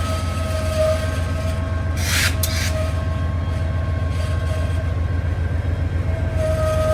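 Freight train rolling past with a steady low rumble and a high, wavering wheel squeal, plus a short hiss-like burst about two seconds in.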